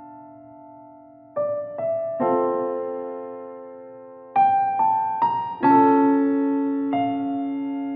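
Background piano music: slow notes and chords, each struck and left to ring and fade, with a lingering chord before new notes come in about a second and a half in.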